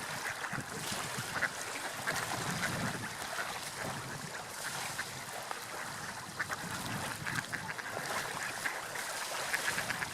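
Gulls calling repeatedly, short calls scattered over a steady wash of sea waves and wind.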